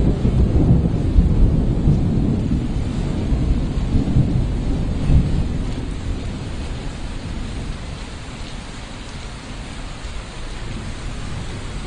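Rain falling with a low rolling rumble of thunder that fades over the first half, leaving steady rain.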